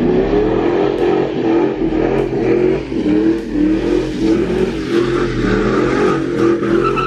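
A car's engine revving up and down over and over as the car does donuts, its pitch rising and falling about once a second, with a rushing noise over it from the spinning tyres.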